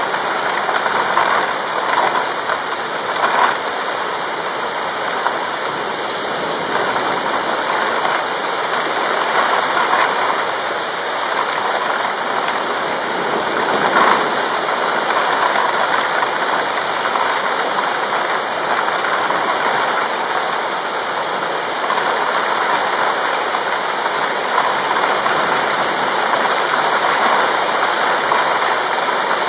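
Heavy rain falling steadily during a thunderstorm, a dense even hiss, with a few brief louder splashes about three seconds in and again about halfway through.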